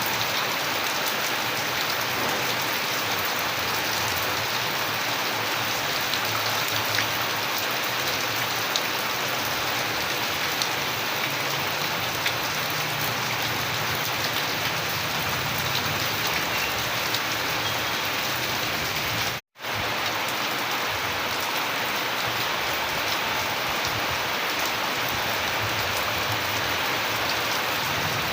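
Steady, heavy rain falling on a surface, a constant hiss with scattered ticks of individual drops. The sound cuts out for an instant about two-thirds of the way through, then carries on unchanged.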